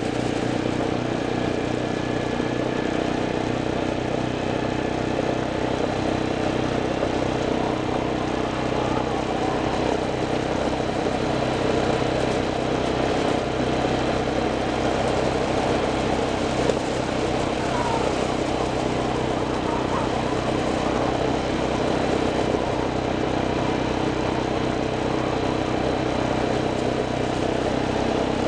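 A vehicle's engine running at a steady, even pitch under a constant rush of noise.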